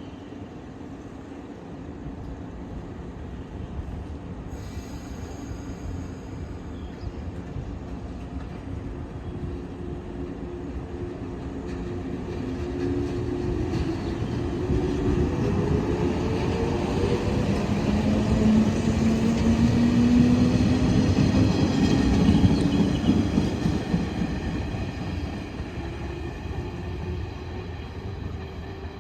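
A 115 series electric train pulling out of a station: its traction motors whine, rising steadily in pitch as it accelerates, over rumbling wheels. The sound grows loudest about two-thirds of the way through as the cars pass, then fades.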